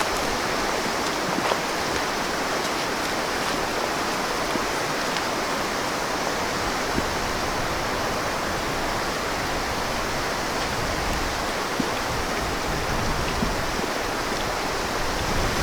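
Steady hiss of rain and sleet falling through the woods, with a few faint scattered ticks.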